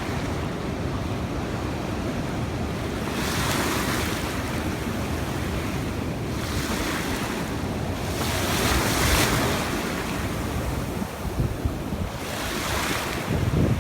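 Sea waves washing onto the shore, the hiss swelling and fading about four times, over a steady low rumble of wind buffeting the microphone.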